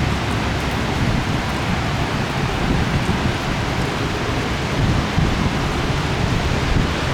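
Heavy thunderstorm rain pouring steadily, with a constant low rumble underneath.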